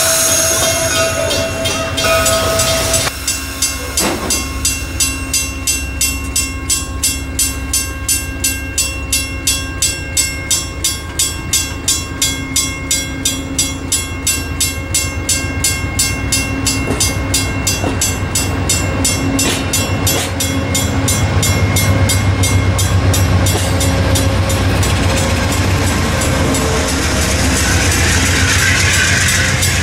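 Amtrak train passing: a horn sounding for the first few seconds, then a steady rhythmic clatter of wheels over the rail joints. A deeper rumble and a hiss grow louder near the end.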